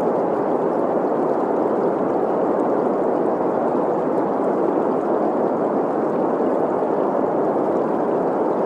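Steady green noise, an even hiss centred in the middle range, blended with the flow of a running stream.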